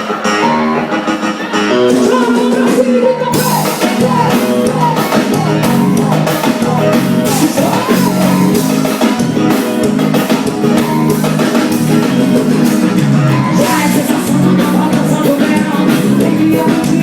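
A forró band playing with a singer, loud. The full band comes in about three seconds in.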